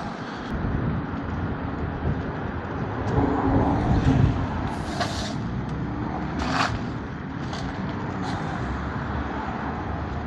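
Riding noise on a wet, slushy street: wind rumbling on the microphone and tyre and traffic noise. Brief hissing swells come about five and six and a half seconds in.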